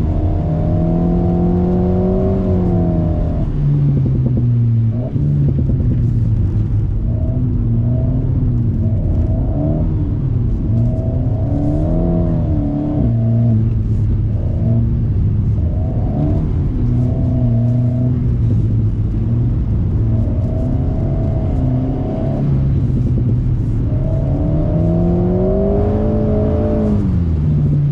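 Alpine A110's turbocharged four-cylinder engine through a BDA Racing Track Evo stainless exhaust, heard from inside the cabin, its revs climbing and dropping again and again as the car is drifted on a wet track.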